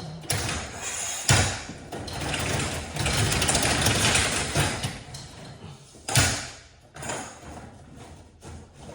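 Mechanical rattling and clattering, with two sharp knocks, one about a second in and one about six seconds in.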